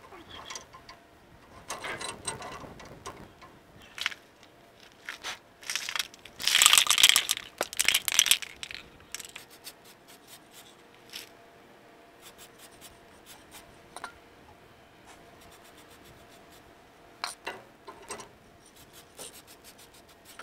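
Metal parts and hand tools being handled, with scattered clinks and knocks and a loud rustling, tearing burst about six to eight seconds in.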